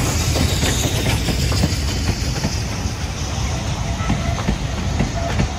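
Steam-hauled passenger coaches rolling past close by: a steady low rumble with wheels clicking over rail joints. The departing locomotive's steam hiss fades away over the first couple of seconds.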